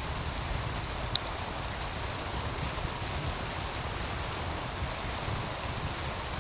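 Steady rush of a meltwater stream with a wood fire crackling over it in scattered sharp clicks, one loud pop about a second in, and a low rumble underneath.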